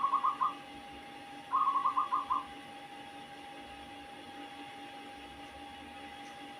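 Zebra dove (perkutut) cooing: two short runs of rapid staccato notes, one at the start and one about a second and a half in, over a steady faint hum. The owner calls the song strange.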